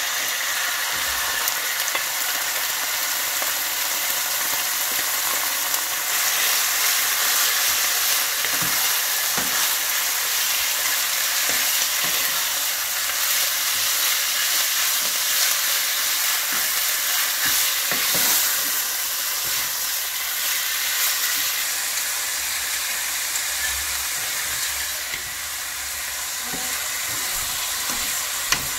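Sliced marinated beef sizzling loudly in hot oil in a nonstick wok, starting as the meat hits the pan, while it is stir-fried with a wooden spatula and a metal spoon. The sizzle runs on steadily with faint scraping knocks from the utensils and one sharp clink near the end.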